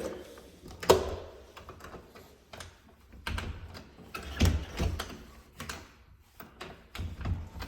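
A series of separate clicks and knocks from a door's handle and lock being worked, the lock sticking and refusing to unlock.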